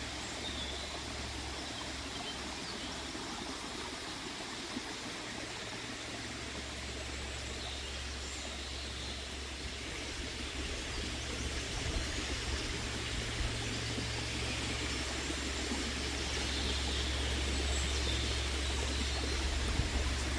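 Forest stream rushing steadily, with a few faint bird calls above it.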